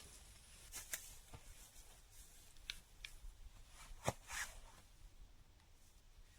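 Faint rustling with a few light, scattered clicks, the sharpest one about four seconds in, followed by a short rustle.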